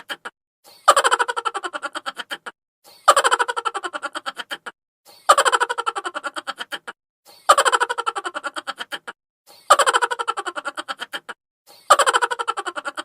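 Sped-up, high-pitched cartoon 'chipmunk' laugh sound effect, a rapid run of 'ha-ha' pulses falling in pitch. It repeats in a loop about every two seconds, six times over.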